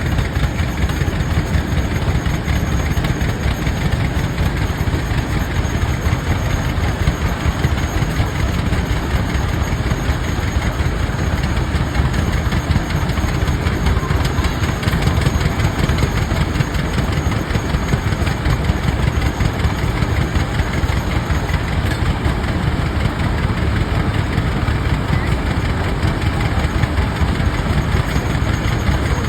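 Rumely OilPull tractors' big two-cylinder engines running steadily with a dense, even low pulse, belted to power a sawmill.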